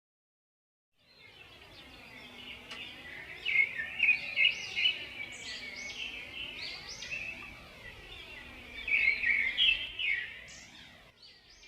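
Birds chirping over a steady hiss, like a recorded forest ambience, starting about a second in. The chirping grows busier and louder twice, about a third of the way in and again near three quarters.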